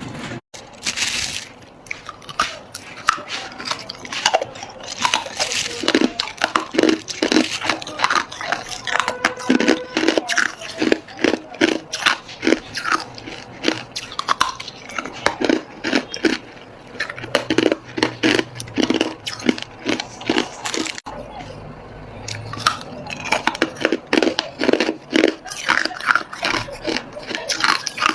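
Hard ice cubes being bitten and chewed, with loud, rapid crunching several times a second.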